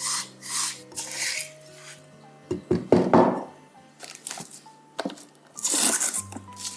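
Kitchen utensils and dishes being handled during cookie preparation: a few quick scraping strokes near the start, a louder scrape or knock around the middle and another near the end, over soft background music.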